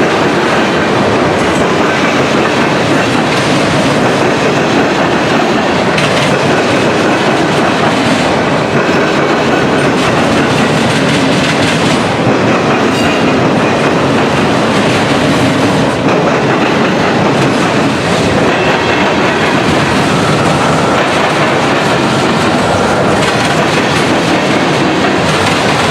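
Freight cars of a long CSX mixed freight train rolling steadily past at close range, wheels clattering over the rail joints and crossing diamonds.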